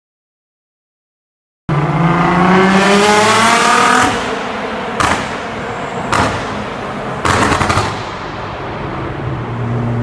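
A supercar's engine starts after a short silence and revs up with a rising pitch. It then fires loud exhaust cracks and pops, three bursts, before settling into a steady lower drone.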